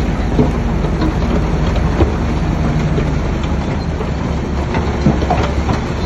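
Crawler bulldozer at work: its diesel engine runs steadily under load while its steel tracks clank, with a few sharp metallic knocks, one about two seconds in and another a little after five.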